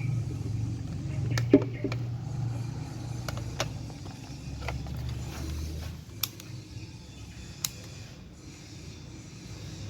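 Low steady hum of a refrigerator compressor running just after the unit is plugged in, with several sharp clicks of handling; the hum drops away about six seconds in.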